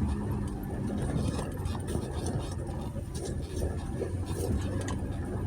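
2020 Jeep Gladiator's 3.6-litre V6 running at a low, steady crawl on a dirt trail, with scattered small clicks and crunches over the engine hum.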